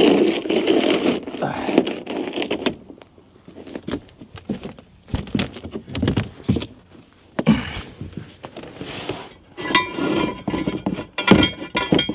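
Irregular metal knocks, clinks and scraping from a floor jack and jack stand being worked under a car as it is raised.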